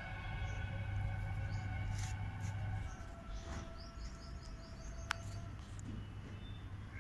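A steady low drone with several held tones through the first three seconds. Later, a small bird chirps a quick run of short rising notes, and there is a single sharp click in the middle of it.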